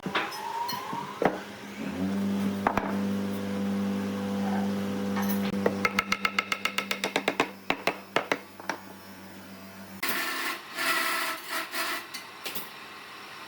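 Workshop sounds: an electric power tool's motor hums steadily for several seconds while wood knocks. About halfway through comes a quick run of about eight clicks a second, and near the end a few harsh noisy bursts.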